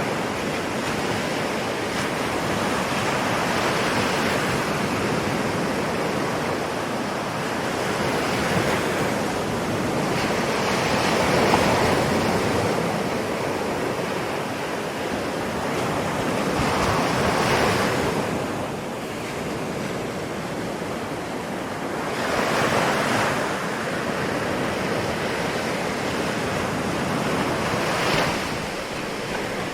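Ocean surf: a steady wash of water with waves swelling and breaking about every five to seven seconds.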